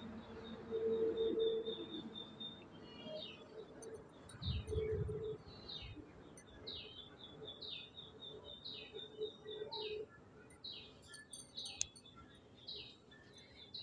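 A bird calling over and over: short, high, falling chirps, about one and a half a second, starting about three seconds in. A low murmur near the start and a soft low thump just before the five-second mark lie under it.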